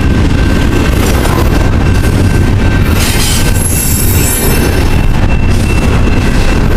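Freight train rolling past: a loud steady rumble of wheels on rail, with a thin wheel squeal held at two steady pitches and a hiss that swells around the middle.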